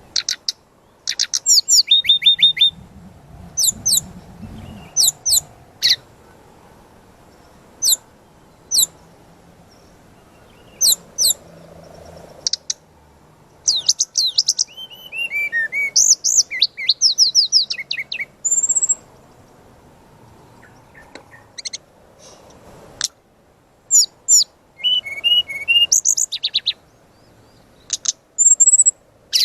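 Brown-chested jungle flycatcher singing in repeated short bursts of rapid, high-pitched chirps and trills, some phrases sliding down in pitch, with brief pauses between them.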